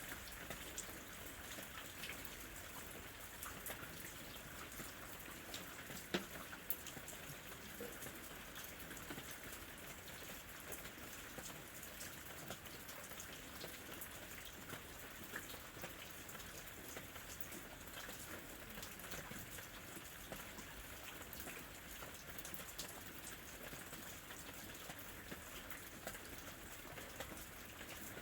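Steady rain falling on a lemon tree, an even patter of many small drop ticks, with two louder single drops about six seconds in.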